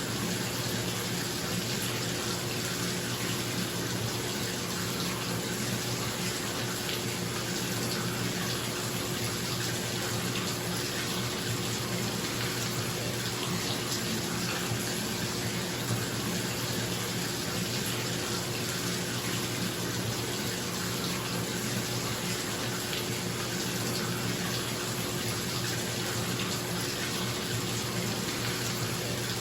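Bathtub filling from the tap: a steady, unbroken rush of running water, with a bathroom exhaust fan humming underneath.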